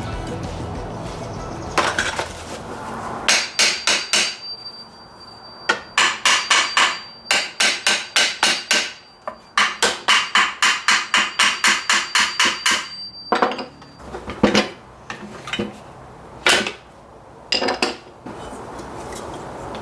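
Hammer blows during the dismantling of an old circular saw, coming in quick runs of several strikes, about three or four a second, with a steady high ringing tone under the middle stretch. A few single strikes follow near the end.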